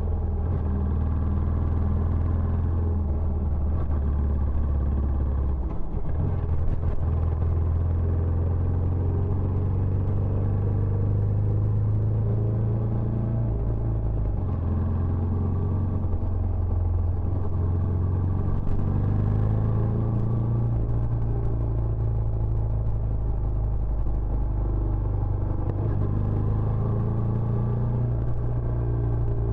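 Benelli Imperiale 400's single-cylinder engine running through its stock exhaust. The engine note holds steady for several seconds at a time, stepping up or down in pitch every few seconds.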